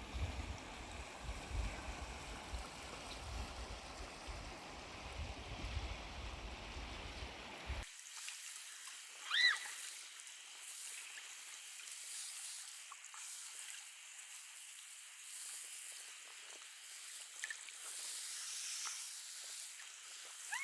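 Water and wind noise from a kayak on the river, with a low rumble for the first eight seconds or so. It then changes abruptly to a thinner, quieter hiss of moving water, broken about a second and a half later by one short rising-and-falling chirp.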